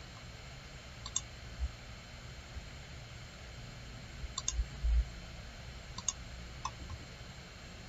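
Computer mouse clicking a few times, some clicks in quick pairs, with a couple of dull low thumps in between.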